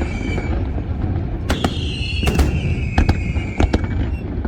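Aerial fireworks going off: a run of sharp bangs, some close together, over a steady low rumble, with a long whistle that falls slowly in pitch starting about a third of the way in.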